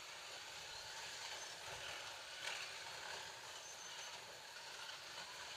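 Scalextric slot cars running laps on plastic track: a steady whirring of small electric motors and wheels, with one sharp click about two and a half seconds in.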